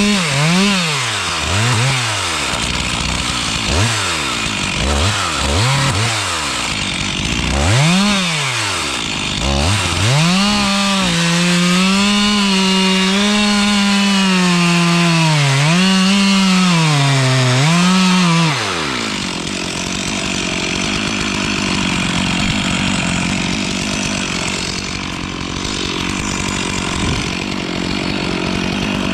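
Two-stroke chainsaw revving up and down in short blips for about ten seconds. It then holds at high revs for about eight seconds, dipping briefly under load as it cuts into dead spruce, and drops back to idle.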